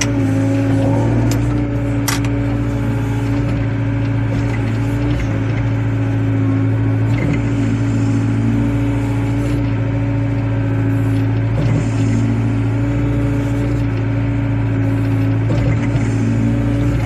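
Wheeled excavator's diesel engine running at a steady working speed with a constant low hum.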